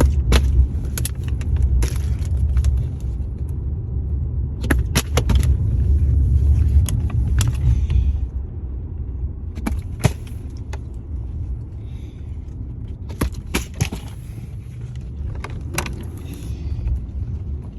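Steady low rumble of a moving car heard from inside the cabin, easing a little about halfway through, with scattered sharp knocks and clacks of a plastic water bottle being flipped and landing.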